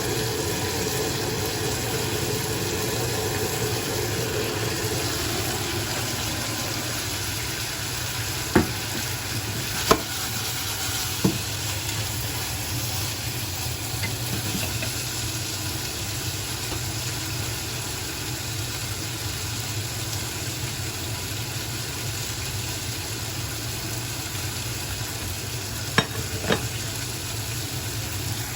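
Strong wind blowing: a steady rushing hiss, a little stronger for the first few seconds, broken by a few sharp knocks, three near the middle and two near the end.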